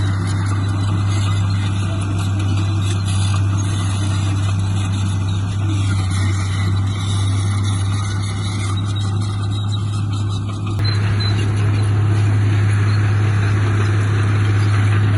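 Diesel engine of heavy earthmoving machinery running steadily with a strong low hum, its sound filling out and growing a little louder about eleven seconds in.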